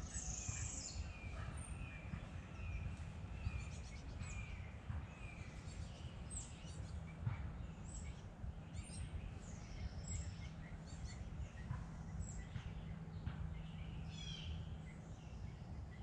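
Several wild birds chirping and singing over a steady low background rumble. One bird repeats a short note about twice a second for the first few seconds, while others give scattered high chirps and trills throughout.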